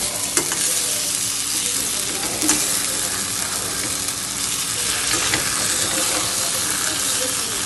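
Marinated chicken pieces sizzling as they fry in butter and a little oil in a kadai: a steady, loud hiss with a few sharp clicks. The chicken is crisping.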